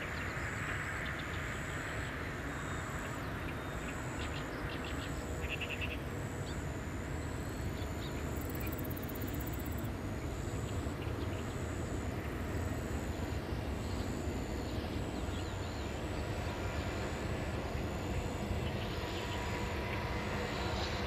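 Distant freight train, an electric locomotive hauling Shiki 550 heavy-load wagons, rolling past with a steady low rumble. Over it a high chirp pulses evenly, a little under twice a second.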